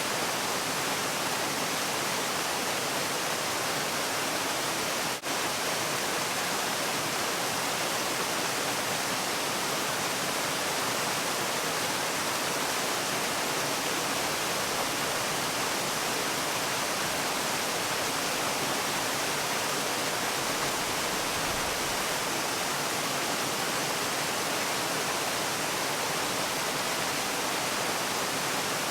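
Waterfall: a steady, even rush of falling water with no change in it, apart from a momentary drop in level about five seconds in.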